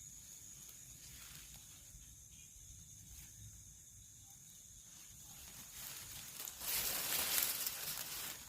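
Night insects keep up a steady high-pitched trill. From about six seconds in, a loud rustling swells for two to three seconds, then eases near the end.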